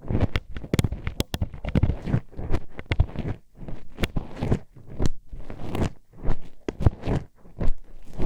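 Metal hairpin poked and scraped inside a microphone's ear, close up: irregular sharp clicks and clacks, several a second, with scratchy rubbing and low rumbling between them.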